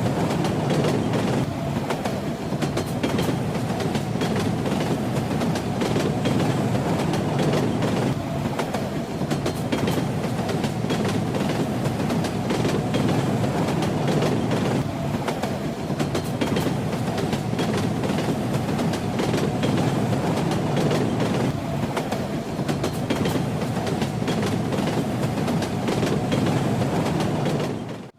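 Train wheels running steadily over the rails: a continuous rumble with clickety-clack of the wheels over the rail joints. The level drops out briefly at the very end.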